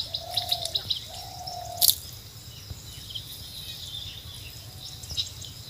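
Small birds chirping and twittering over a low steady outdoor background, with two long, even, mid-pitched calls in the first two seconds and a single sharp click just before two seconds in.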